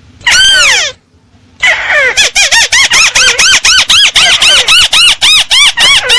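Crake (burung tikusan) lure call: one loud arched note, then from about one and a half seconds in a fast, steady run of rising-and-falling notes, about five a second.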